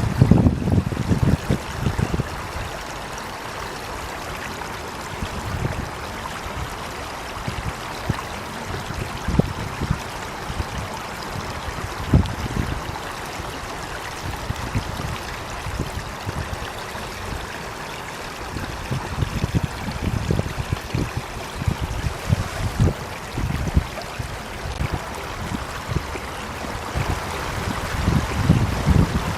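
Running water flowing steadily, with irregular low rumbles that come and go, strongest in the first second and near the end.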